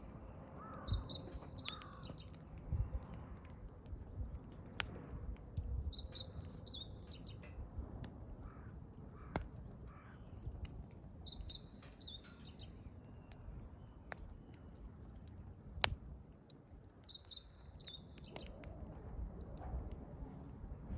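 A songbird repeats a short, quick song phrase every five or six seconds over a wood campfire burning, with a few sharp pops from the burning firewood, the loudest about sixteen seconds in.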